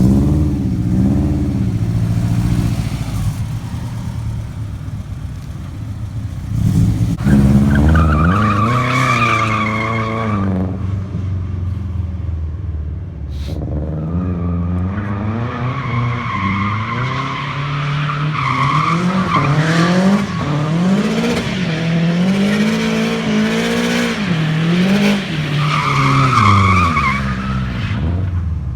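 Big-turbo Subaru engine revving up and down hard as the rear-wheel-drive car drifts, with its rear tyres squealing in three long stretches: about eight seconds in, mid-way, and near the end.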